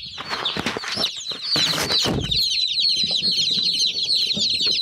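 A brood of day-old chicks peeping nonstop, many high, rapid peeps overlapping. Knocks and rustles of the camera being handled come through over the first two seconds.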